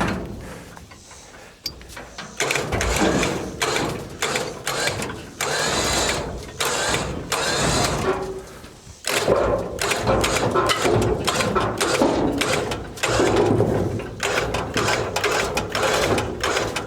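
Winch running in spells, dragging the old bus, with irregular mechanical clicking and rattling. It eases off briefly near the start and again about halfway through.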